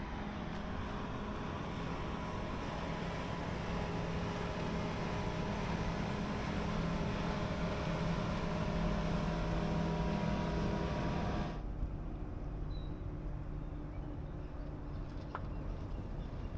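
An engine running steadily with a constant pitch. About eleven and a half seconds in, the sound turns abruptly duller and quieter in its upper range.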